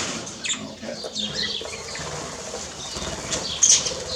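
Aviary birds flapping their wings and rustling about, with many short high chirps throughout and a louder one near the end.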